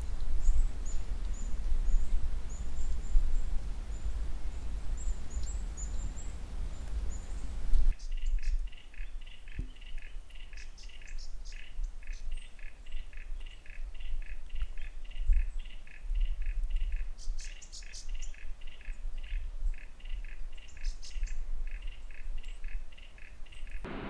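A low rumble with faint high bird chirps. About eight seconds in it cuts to birdsong: one bird repeats short notes steadily, about three a second, while other birds chirp higher now and then.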